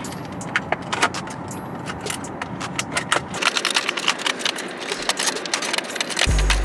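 Packaging rustling and clicking as a small car accessory is unboxed by hand, with dense irregular crinkles and clicks. A low hum underneath stops about three and a half seconds in, and a low thud comes near the end.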